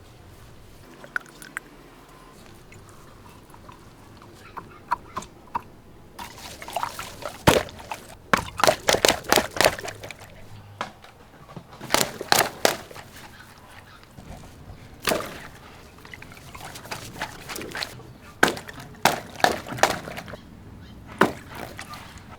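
Water-filled stretchy rubber toy being handled: bursts of short squeaks and squelches with water sloshing, coming in bunches, busiest several seconds in.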